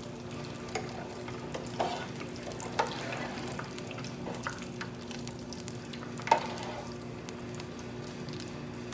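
Hot oil sizzling steadily in a deep fryer, with a few light knocks of utensils, the loudest about six seconds in.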